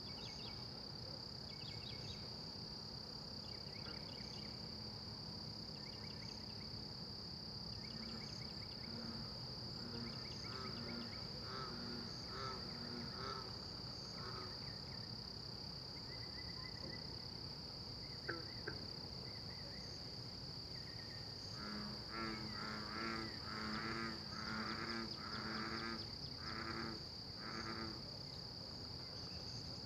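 Unidentified animal giving a run of repeated pitched calls, about two notes a second: a fainter run in the middle, then a louder run near the end. Over a steady high chorus of night insects such as crickets.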